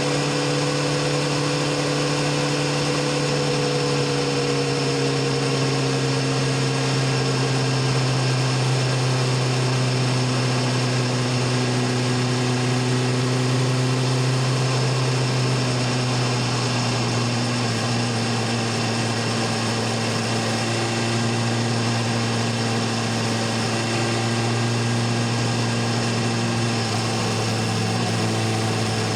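BMW S1000RR inline-four sportbike engine and exhaust running steadily under way, its note slowly sinking as the revs ease off.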